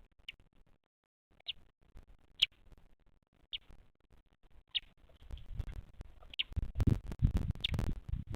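Bearded vulture chick peeping: short high peeps, about one a second. From about five seconds in, louder rustling and knocking noises join them.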